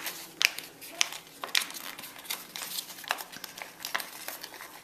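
Stiff paper crinkling and crackling as it is creased and folded by hand into an origami crane, with irregular sharp crackles.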